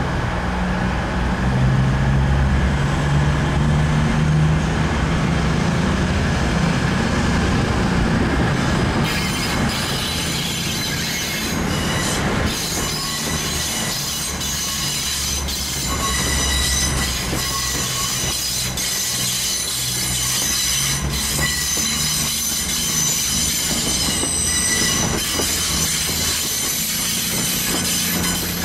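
Diesel passenger trains at a station: an engine hum close by, joined about a third of the way in by high-pitched wheel squeal as trains move over curved track, the squeal lasting to the end.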